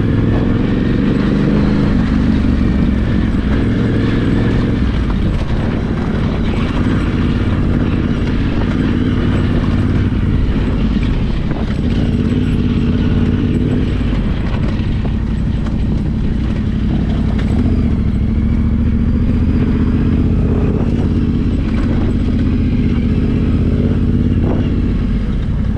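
Yamaha Ténéré 700's parallel-twin engine running at a fairly steady pitch under way, over a constant low rumble.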